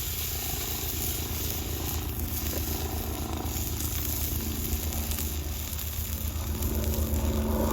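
Steak sizzling in a hot pan over a campfire: a steady frying hiss, with a low rumble underneath.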